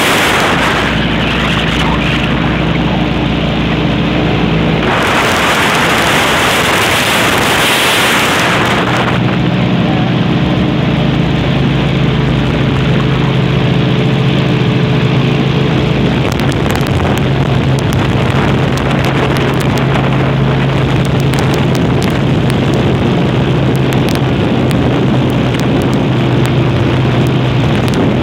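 Airboat's engine and air propeller running steadily under way, a loud drone with wind buffeting the microphone; a louder rush of wind comes about five seconds in and lasts several seconds.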